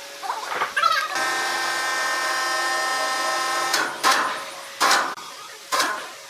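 A power tool's motor whines at one steady pitch for about three seconds, then stops, followed by three short, loud bursts of noise about a second apart.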